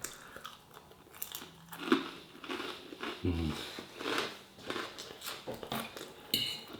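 Close-up chewing and biting of crunchy fried prawn toast, with irregular crisp crunches and mouth sounds.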